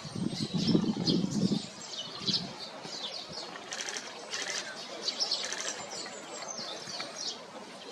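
Small songbirds chirping and twittering in many quick short calls. A lower sound is also heard during the first second and a half.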